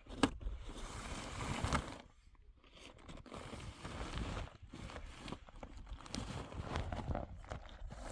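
Footsteps crunching through snow, uneven and scuffing, with a sharp click just after the start and a short lull about two seconds in.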